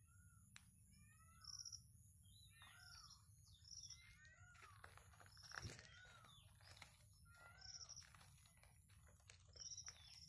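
Faint birdsong: a short high note repeated every couple of seconds, with other chirps and whistles in between, over a low steady rumble.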